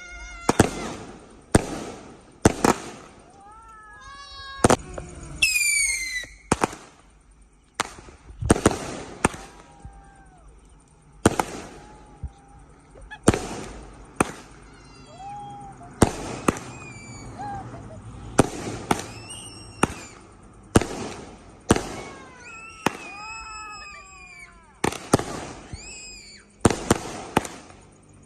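A fireworks display: a string of sharp bangs, one every second or two, with high sliding tones between them.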